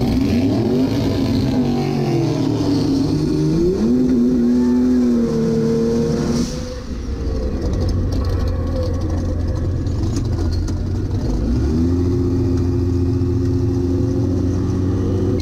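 Turbocharged Torino drag car's engine heard from inside the cabin at low speed: its pitch rises and falls over the first few seconds, turns rough for a while, then holds a steady drone near the end.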